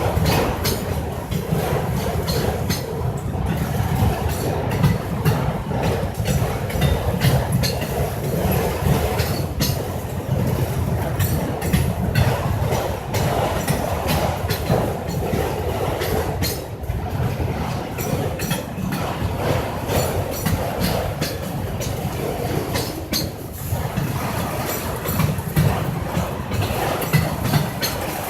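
Freight train of auto-rack cars rolling past steadily, a continuous rumble with many wheel clicks and clacks over the rail joints.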